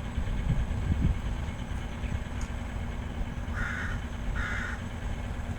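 Steady low rumble of a 2M62U two-section diesel locomotive running as it brings a passenger train into the station. Two short harsh calls sound over it about three and a half and four and a half seconds in.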